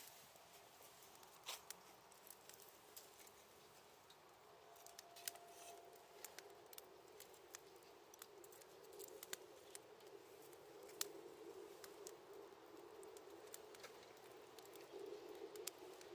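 Small wood fire crackling faintly, with scattered sharp pops and snaps and a low rush of flame that grows stronger in the second half. A brief faint whistle sounds about five seconds in.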